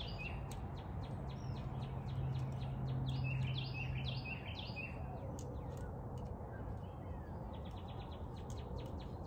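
Small songbird chirping in repeated short clusters of notes over steady outdoor background noise. A low steady hum runs under it and stops about four seconds in.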